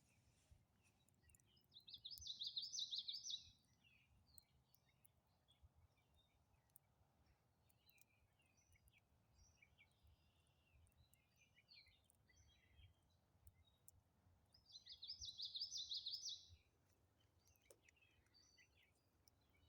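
A songbird singing two loud, fast trilled phrases, one about two seconds in and another about fifteen seconds in, with fainter chirps from other birds between.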